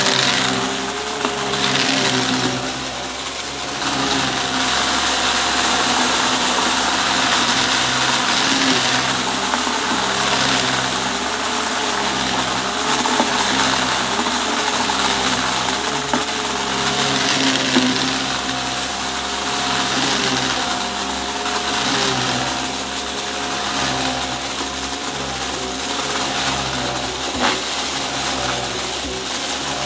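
Upright vacuum cleaner running, its motor tone wavering and its loudness swelling and easing every couple of seconds as it is pushed back and forth, with a few sharp clicks of debris being sucked up.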